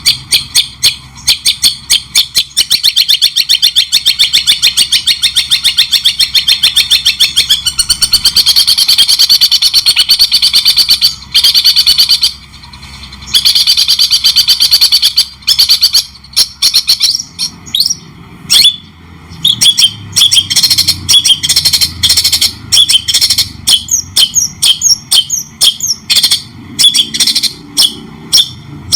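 Songbird song, which the title gives as a white-rumped shama (murai batu) singing in cendet (long-tailed shrike) style. It runs as long strings of rapid, repeated chattering notes, breaks off briefly about twelve seconds in, and from about seventeen seconds on changes to varied, quick sweeping whistles.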